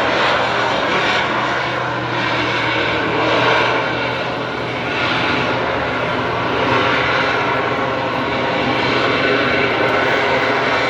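Aircraft engine drone from a plane in flight: a continuous noisy drone over a steady low hum, swelling and easing slightly in loudness.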